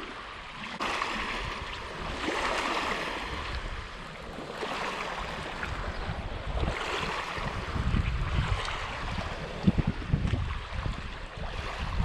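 Small waves washing in and out on a lakeshore, swelling and fading every second or two, with wind buffeting the microphone.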